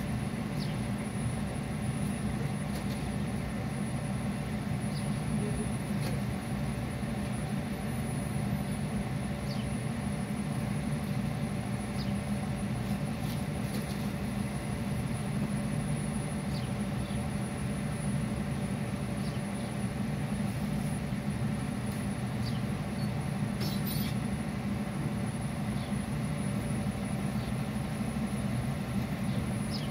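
Steady low hum of a car idling in stopped traffic, heard from inside the cabin, with a few faint clicks.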